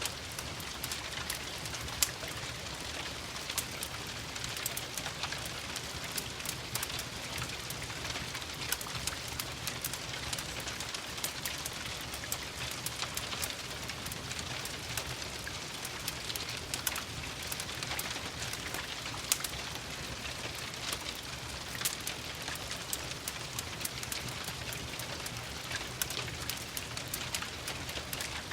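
Steady rain pattering, mixed with a crackling wood fire: frequent sharp pops and crackles over a constant hiss, and a low rumble underneath.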